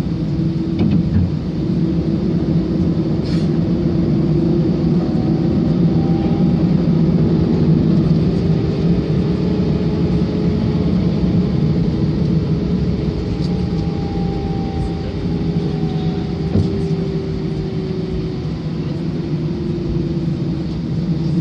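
Steady rumble of an Airbus A319's jet engines heard from inside the cabin, with a faint tone that slowly rises and then falls in pitch through the middle.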